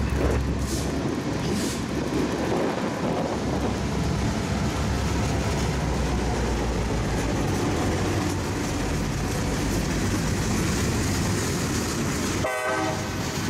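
Florida East Coast GP38 locomotive 510, with its EMD two-stroke V16 diesel, and its freight cars rolling past: a steady low engine rumble with the rumble and clatter of wheels on the rails.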